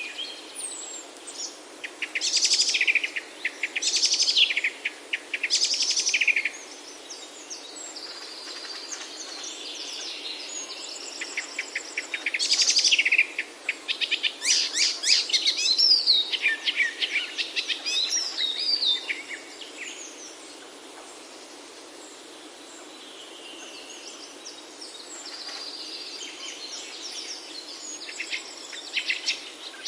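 Songbirds singing: rapid trilled and chirping phrases, each a second or so long, come in clusters over a steady background hiss, busiest near the start and in the middle.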